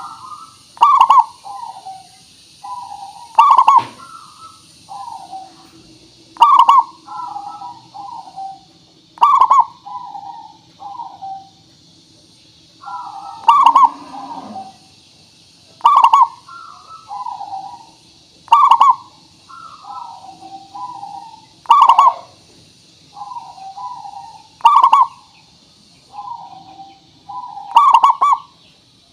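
Zebra dove (perkutut) cooing in a phrase repeated about every three seconds. Each phrase opens with a loud, sharp note and runs on into a string of softer, rolling coos, over a steady faint high hiss.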